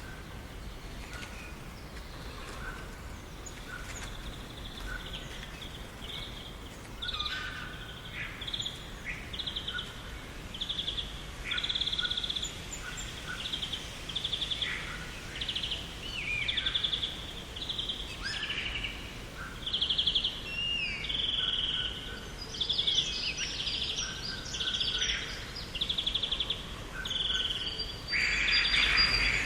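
Garden birds singing and calling: short trilled phrases repeated every second or so, with lower chirps and a few falling whistles, getting busier about a quarter of the way in. A steady low background hiss runs under them.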